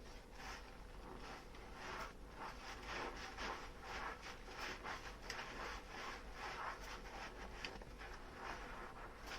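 Dishes being scrubbed with a soapy sponge: a run of short, irregular rubbing and scrubbing strokes.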